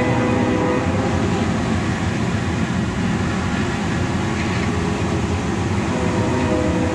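Train passing, a steady rumble.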